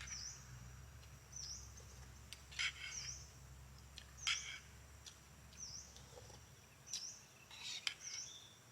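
A bird repeating a short, high, dipping chirp about once every second and a bit, with other short sharp bird chirps among it and a faint low hum underneath.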